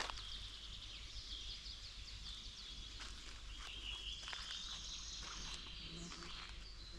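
Forest ambience: continuous high-pitched chirping calls over a low rumble, with a few faint clicks.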